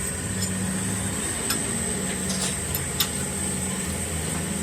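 Workshop machinery running with a steady low hum and a high whine, with several light metallic clicks and clinks around the middle.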